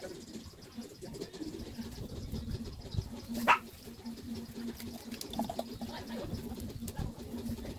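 Birds calling in the background, with one short, louder sound about halfway through.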